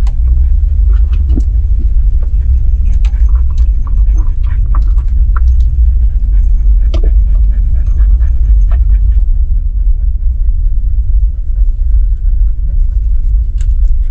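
A dog panting over the steady low rumble of a moving vehicle, with scattered light clicks.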